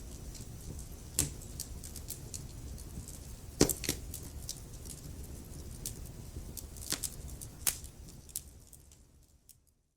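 Wood fire burning in a fireplace: a low, steady rustle and hiss with occasional sharp crackles and pops. It fades away to silence near the end.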